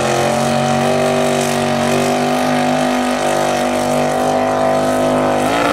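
1972 Chevy C20 pickup's engine running at full throttle, held at high revs while pulling a sled, with a brief rise in pitch near the end.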